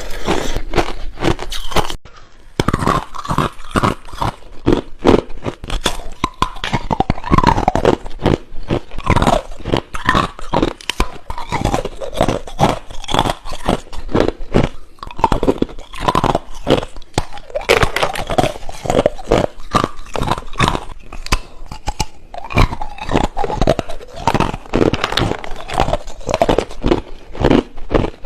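Ice being bitten and crunched close to the microphone: a dense, irregular run of sharp crackling crunches, with a brief dip about two seconds in.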